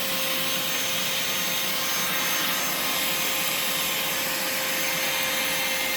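Vacmaster 2.5-gallon, 2-horsepower shop vacuum running steadily: an even rush of air with a constant whine from the motor.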